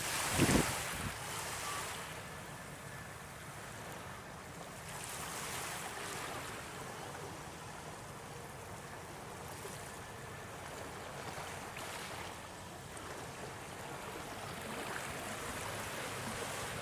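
Steady rushing noise of wind and water by the shore, with a brief louder rush just after the start.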